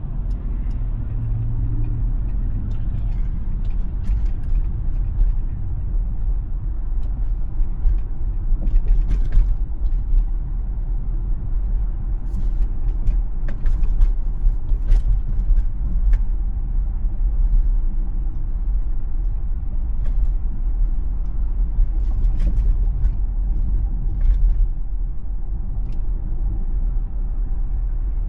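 Steady low road and tyre rumble of a Tesla electric car driving along, with no engine note, and scattered faint clicks and creaks throughout.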